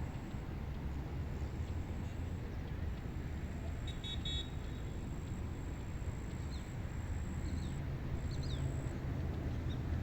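Wind rumbling steadily over a rice paddy, heaviest in the low range, with a faint thin high whine behind it. A brief high toot-like call comes about four seconds in, and a few short falling chirps follow later.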